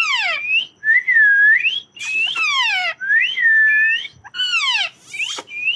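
Pet parrot whistling on request: a string of clear whistles, dipping and rising notes alternating with quick downward-sliding notes, repeated several times.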